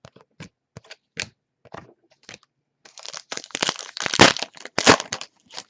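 Trading-card pack packaging crinkling and crackling as it is handled and opened. A few light clicks and taps come first, then a dense stretch of crinkling from about three seconds in to just past five.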